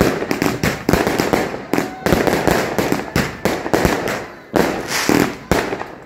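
A dense barrage of fireworks and firecrackers going off, several sharp bangs a second overlapping one another, each with a short rumbling tail.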